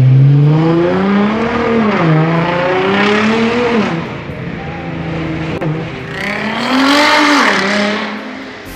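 Nissan GT-R R35's twin-turbo V6 running through a decatted-downpipe performance exhaust, its revs climbing and dropping back three times, with the highest climb near the end.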